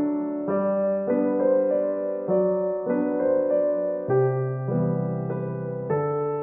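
Soft background piano music: gentle notes and chords changing about every half second.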